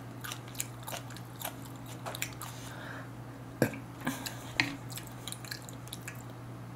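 Close-miked chewing: soft wet mouth clicks and smacks, with a few sharper clicks a little past the middle, over a steady low hum.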